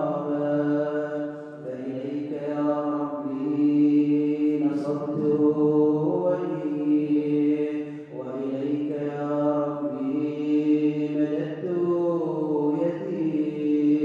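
Arabic devotional chanting by a male voice in long, drawn-out melodic phrases of a couple of seconds each, with short breaks between them.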